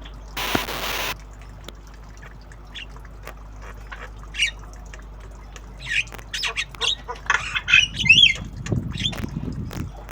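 Young Javan myna squawking and chirping: a rapid run of short harsh calls mixed with quick whistled glides, starting about six seconds in. A short burst of hiss comes about half a second in.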